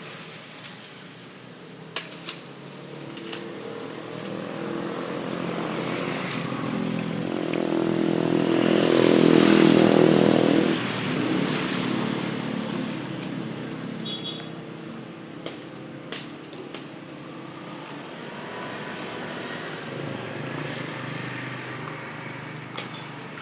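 A motor vehicle's engine passing by, growing louder to a peak about nine to ten seconds in and then fading away. Several sharp knocks are heard along the way.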